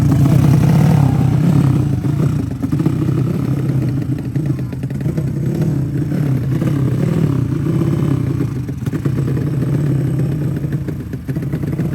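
Racing motorcycle engines running and revving continuously, loud and fairly steady.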